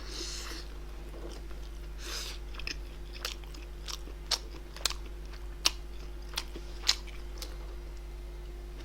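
A person chewing food close to the microphone, with a handful of sharp mouth clicks and smacks in the middle seconds.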